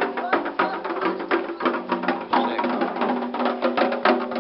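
Candomblé ceremonial music: drums and sharp wooden-sounding percussion playing a fast, even rhythm, with voices singing over it.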